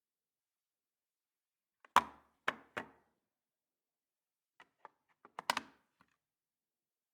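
Wooden toy train pieces clacking against each other. There are three sharp knocks about two seconds in, then a patter of lighter clicks and two louder knocks a few seconds later.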